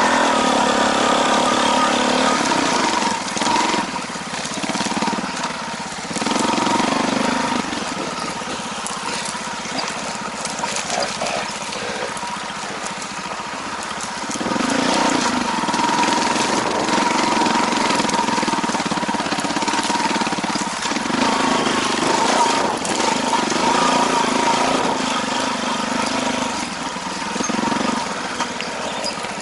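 Motorcycle engine running, rising and easing off in loudness again and again.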